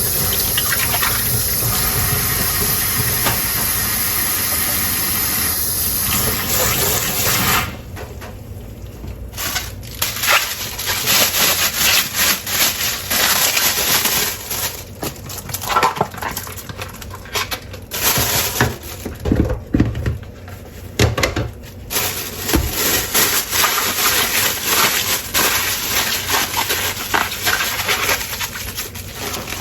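Tap water running steadily into a kitchen sink, cutting off suddenly about eight seconds in. Then irregular splashing and rinsing in bursts, with knocks of dishes being handled, as a large load of dishes is washed by hand.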